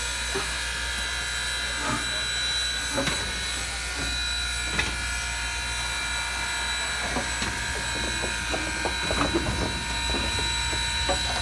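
Southern Railway 630, an Alco 2-8-0 steam locomotive, running with a steady high whine and hiss over a low rumble, with scattered clicks and knocks, more of them in the latter half.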